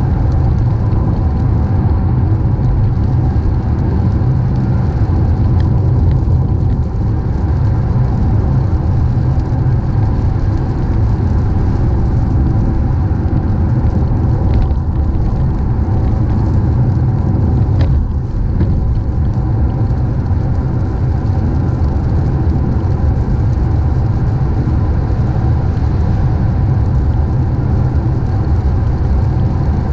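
Car driving at steady speed: a constant low rumble of road and engine noise with a hiss of tyres.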